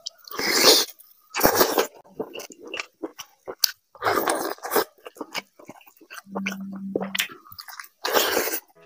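Close-miked wet chewing and biting as a man eats chicken on the bone by hand, tearing meat off with his teeth in a series of loud bursts with small clicks between them. About six seconds in, a brief low steady hum.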